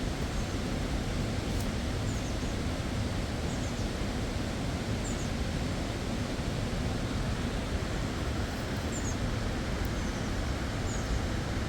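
Steady rush of a fast-flowing river, with a bird giving short high chirps several times over the top.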